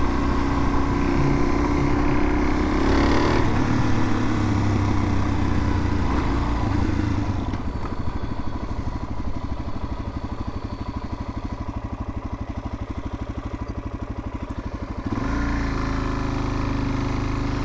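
Suzuki DR-Z400's single-cylinder four-stroke engine heard from the rider's helmet microphone while riding. About seven seconds in it drops to a quieter, even pulsing for several seconds, then picks up again sharply about fifteen seconds in.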